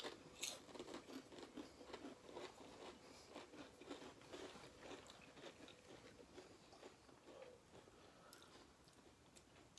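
Faint crunching and chewing of spicy crisps, many small crackles that thin out near the end.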